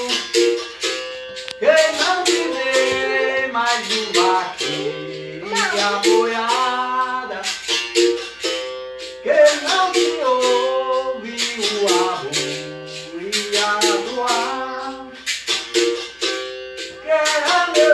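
Berimbau gunga struck in a steady rhythm, its notes stepping between a few pitches, with a voice singing a capoeira song over it.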